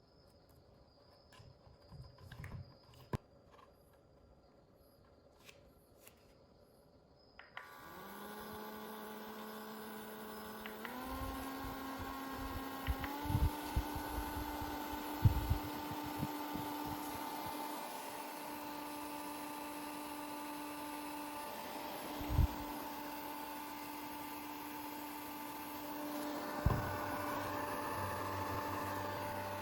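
Portable USB mini fan switched on after a few seconds of handling clicks: its motor whine and air rush start suddenly, then step up in pitch twice as it goes to higher speed settings. A few knocks from handling the fan come over the running fan.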